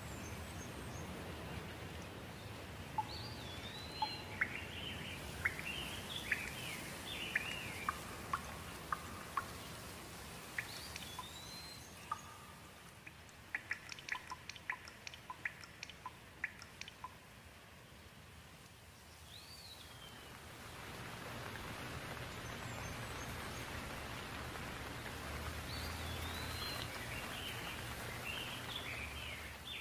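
Steady rain falling, with small birds chirping in short phrases through it. Near the middle the rain eases, with a quick run of sharp drip-like ticks, then it picks up again.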